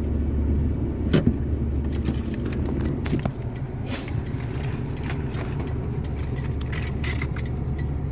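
A car engine running steadily, with scattered small clicks and a light jangle over it.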